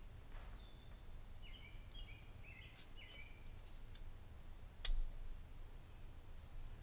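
Quiet room with a low steady hum, a few faint short high chirps about two seconds in, and a single sharp click about five seconds in.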